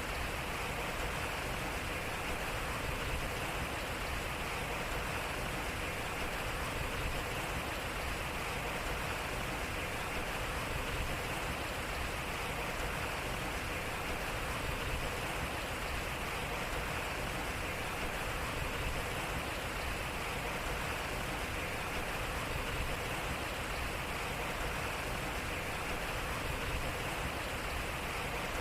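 Water flowing and splashing at a turning waterwheel, a steady even rush with no breaks.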